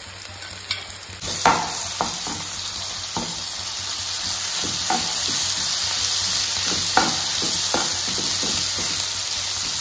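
Onions, tomatoes, green chillies and ginger-garlic paste sizzling in hot oil in a nonstick pan, stirred with a steel spoon that scrapes and clicks against the pan. The sizzle grows much louder about a second in. This is the masala base roasting toward golden brown.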